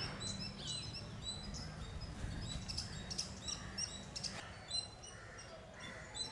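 Several small birds chirping, with many short, high repeated calls overlapping, over a steady low background rumble.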